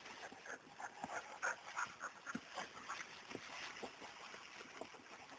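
A Boykin spaniel working through undergrowth, with faint, irregular rustling and crackling several times a second.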